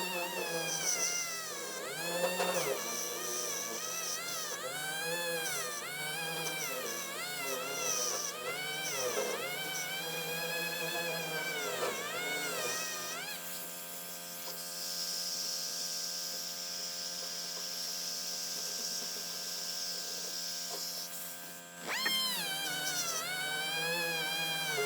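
A power sander grinding down cured body filler on a steel door panel: its motor whine dips and recovers in pitch over and over as it is pressed into the work. About halfway through it runs at a steady pitch for several seconds, then the pitch dips start again near the end.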